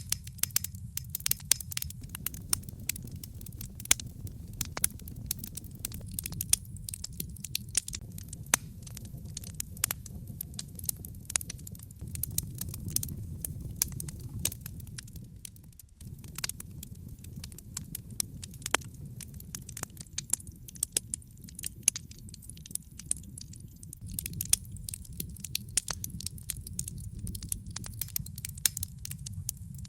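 Wood fire burning in a fireplace: logs crackling with frequent, irregular sharp pops and snaps over a steady low rumble of the flames, which drops out for a moment about halfway through.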